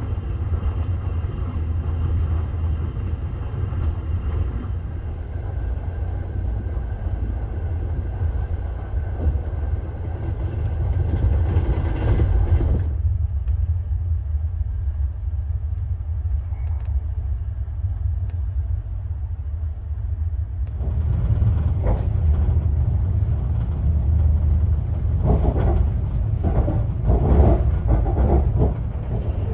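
Passenger train car running on the rails, heard from inside: a steady low rumble of wheels and running gear. For a stretch in the middle only a muffled low rumble is left, and near the end a quick run of clacks comes from the wheels crossing the track joints and points of a station yard.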